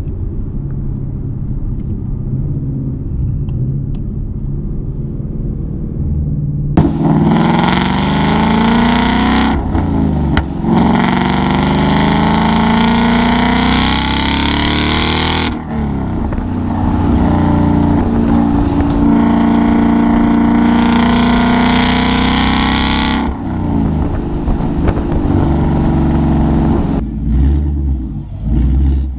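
Manual Ford Mustang's engine and exhaust cruising quietly, then about seven seconds in going to full throttle. The revs climb with a rising pitch, break twice for upshifts, and the loud run carries on for several more seconds before the engine drops back to a quiet cruise.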